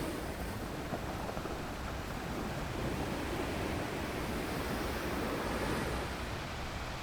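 Ocean waves washing onto a beach in a steady wash of surf, with some wind noise on the microphone.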